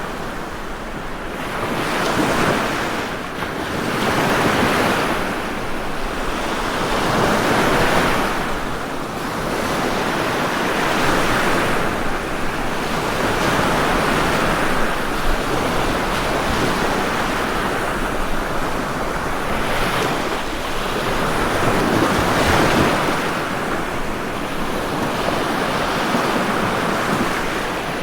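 Ocean waves breaking and washing on a shore, the surf swelling and ebbing every few seconds.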